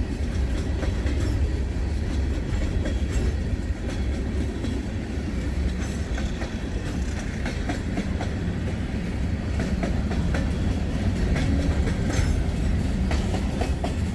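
Freight train cars rolling past: a steady low rumble of wheels on rail with a run of clicks and clacks as the wheels cross rail joints.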